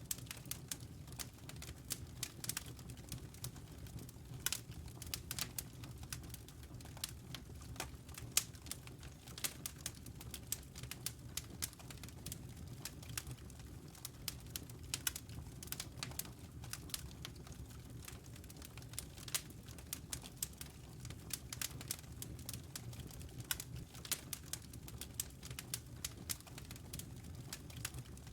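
Wood fire crackling in a fireplace, with many irregular sharp pops and snaps over the low, steady sound of the burning logs.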